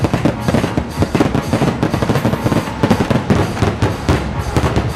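Aerial fireworks bursting and crackling in rapid succession, many bangs a second without a break.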